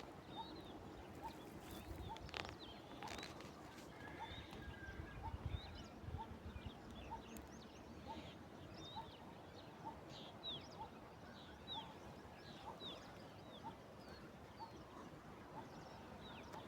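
Faint outdoor animal calls: a short low note repeats about every three-quarters of a second, with higher chirps falling in pitch over it, more of them in the second half. A few knocks come in the first three seconds.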